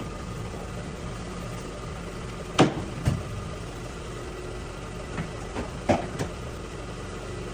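Steady low hum of an idling engine, broken by several sharp knocks, the loudest about two and a half and six seconds in.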